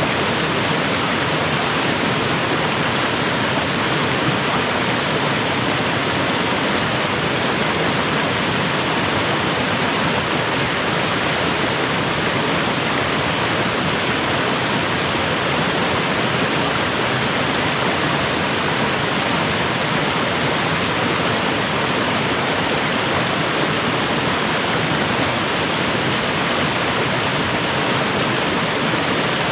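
A mountain creek rushing steadily, an unbroken roar of flowing water.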